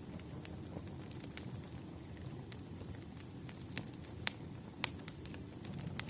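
Firewood fire burning: a steady low rumble of flames with irregular sharp crackles and pops of the burning wood, roughly one a second, the loudest ones a little past the middle.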